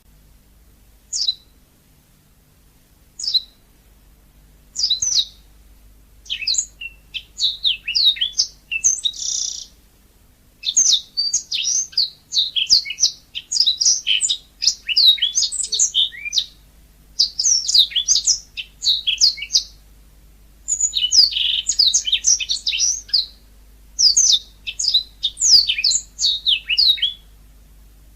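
Yellow-fronted canary (Mozambique canary) singing: a few single high notes at first, then long runs of rapid, high twittering song broken by short pauses.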